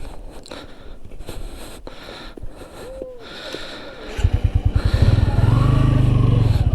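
Motorcycle engine running with a fast, even low pulse. It becomes much louder about four seconds in, after a quieter stretch of scattered clicks and rustling.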